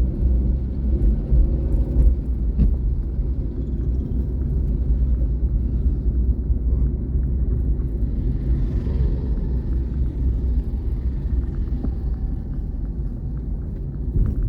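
Steady low rumble of a vehicle driving at highway speed: engine and road noise. A faint higher hiss swells and fades around the middle.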